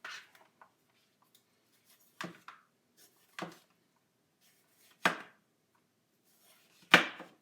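Ceramic chef's knife chopping vegetables on a thin, flexible cutting mat: four separate chops, one every second or two, with the last the loudest.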